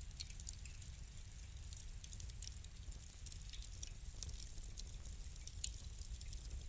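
Wood fire crackling: a rapid, irregular run of small sharp pops and snaps over a low, steady rumble.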